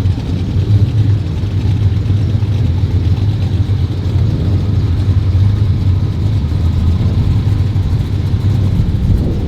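Car engine running steadily, a loud low rumble with no clear revs.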